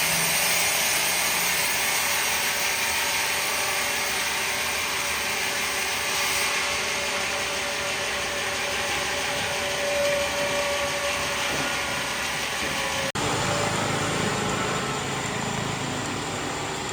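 Power tool running steadily while working wood, a continuous whine over a dense hiss; the sound changes abruptly about thirteen seconds in.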